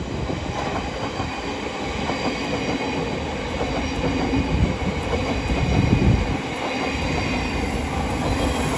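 A pair of Southeastern Class 707 electric multiple units passing through the station: a steady, loud rumble of wheels on rail, with faint steady high-pitched tones over it.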